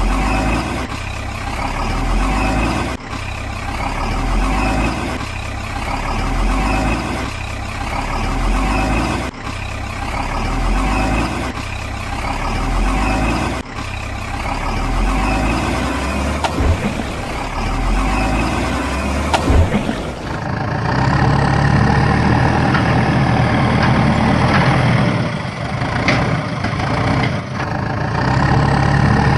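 Heavy truck engine running, its low rumble swelling and easing about every second and a half, with a few abrupt cuts. About two-thirds of the way through it switches to a steadier, fuller engine sound.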